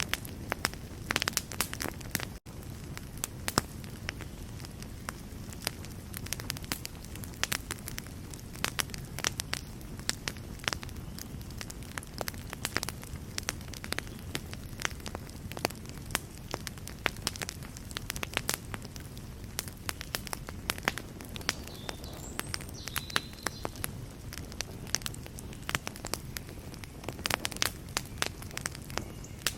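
Fire burning in a fireplace, crackling and popping irregularly over a steady low rumble of flames. The sound cuts out for an instant about two seconds in.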